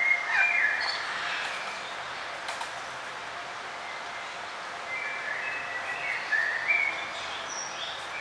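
Small songbirds chirping in short, high phrases, one burst right at the start and more between about five and seven seconds in, over a steady hiss of outdoor ambience.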